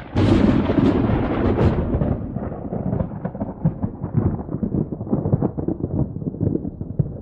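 A thunderclap, loudest in the first two seconds, followed by a rolling rumble with crackles that slowly fades.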